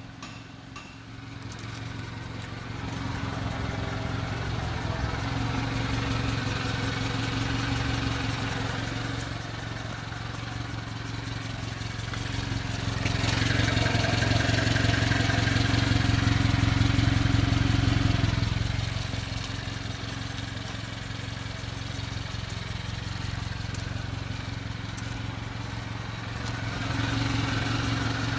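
Subaru Sambar kei truck's 660 cc EN07 four-cylinder engine running steadily. It grows louder for about five seconds around the middle, then settles back.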